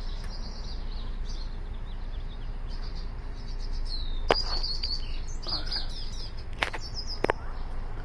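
Small birds chirping, many short high notes repeated throughout, busiest about halfway through. Three sharp clicks stand out about four, six and a half and seven seconds in.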